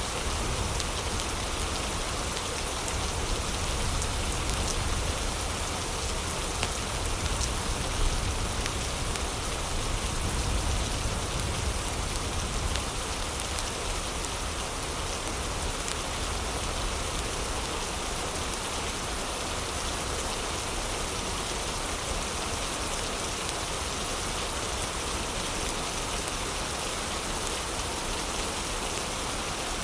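Steady heavy rainfall hissing evenly, with a low rumble that is stronger for the first dozen seconds. Faint scattered clicks of a fireplace crackling sit underneath.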